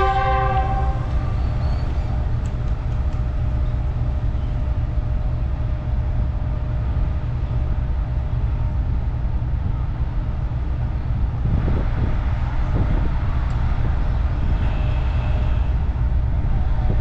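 GEU-40 diesel-electric locomotive engine running with a steady low rumble.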